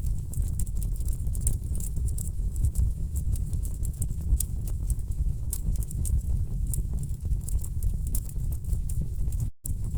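Wood fire burning in a fireplace: a steady low rumble of flames with dense, irregular crackles and pops from the logs. The sound drops out for a split second near the end.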